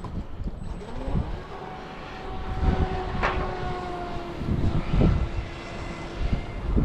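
Pro Boat Recoil 2 26-inch RC speed boat's brushless electric motor whining as the boat runs, its pitch rising about a second in and then holding steady. Gusts of wind buffet the microphone.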